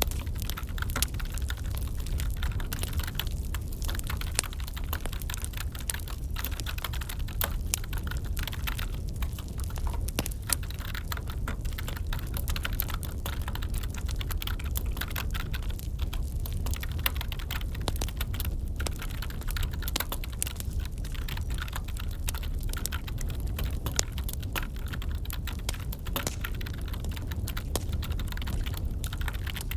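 Computer keyboard typing, irregular key clicks, over the steady low rumble and crackle of a wood fire burning in a fireplace.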